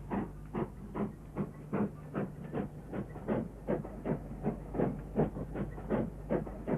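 Steam locomotive working, its exhaust beats coming steadily at about three a second, over a steady low hum.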